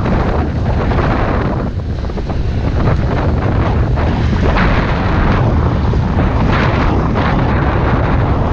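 Wind buffeting heavily on the microphone of a moving motorbike, with a steady low road and engine rumble underneath.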